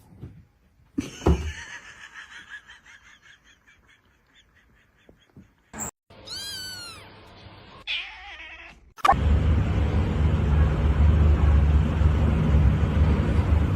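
A run of fast, rattling pulses, then a cat meows once, a single call that rises and falls in pitch. From about nine seconds in, a loud, steady low rumble takes over.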